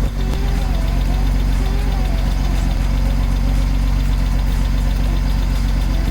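BMW E36's engine idling steadily, a constant low rumble that does not rise or fall.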